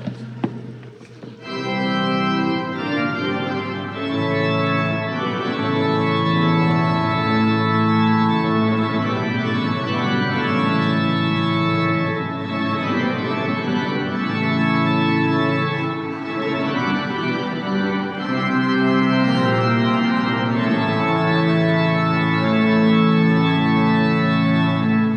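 Organ playing slow, held chords that change every second or two, starting about a second and a half in.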